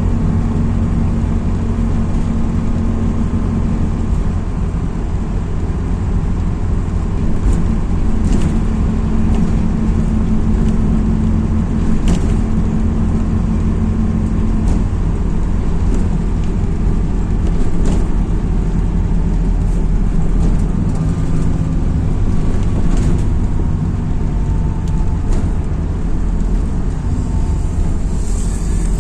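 MAZ-206 city bus under way, heard from inside: a steady engine and road drone, with a few sharp clicks or rattles from the body along the way.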